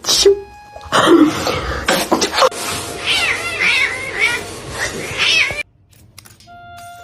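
Domestic cat meowing repeatedly in a run of short calls that rise and fall in pitch, after some short loud noises. The sound cuts off suddenly near the end.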